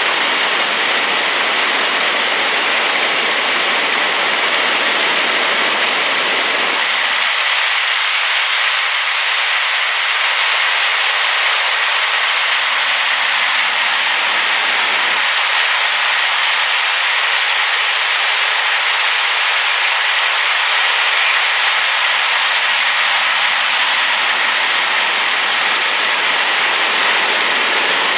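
A rain-swollen waterfall rushing: a loud, steady, even hiss that sits mostly in the upper range. Its low rumble drops away for several seconds at a time, from about a quarter of the way in and again just past the middle.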